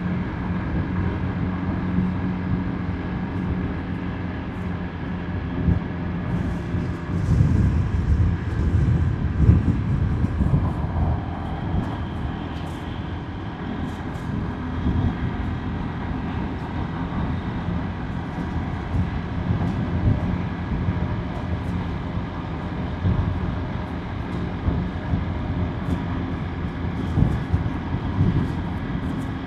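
Motorbike engine running steadily while riding, with road and tyre noise and wind buffeting the microphone. The buffeting is heaviest about seven to ten seconds in.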